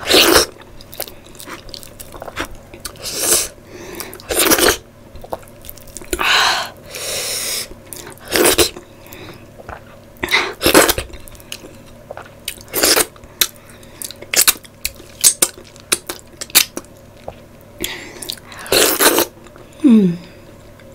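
Close-miked eating by hand: wet chewing of spicy curry with sharp mouth clicks at irregular intervals, and a short falling 'mm' hum near the end.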